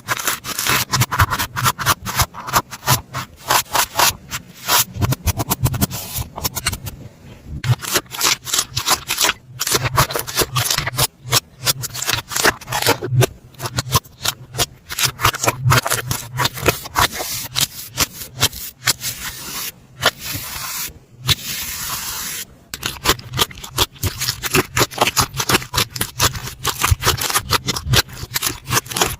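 Slime being squished and worked, giving dense crackling clicks and pops, with a brief smoother stretch of hissy rubbing about twenty seconds in.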